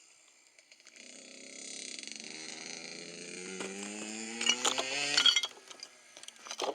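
Kawasaki KX85 two-stroke dirt bike engine running and rising steadily in pitch as it accelerates, then cutting off suddenly about five seconds in. A few sharp knocks come near the cut-off and again near the end.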